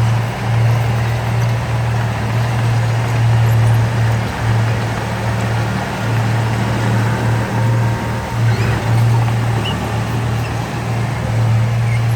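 Heavy diesel engine of earthmoving machinery running steadily under load, a deep drone that dips briefly a few times.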